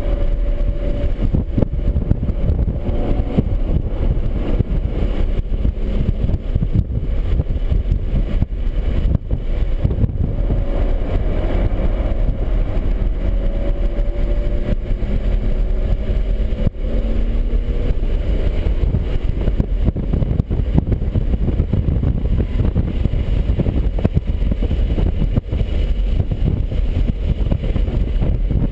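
BMW 135i's turbocharged inline-six running hard on track, its pitch climbing and dropping with acceleration and shifts, under a heavy, steady low rumble of wind and road noise.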